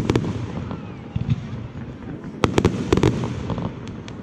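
Fireworks display going off: a quick run of sharp bangs at the start, then another rapid cluster of bangs and crackles about two and a half seconds in, with low rumbling between.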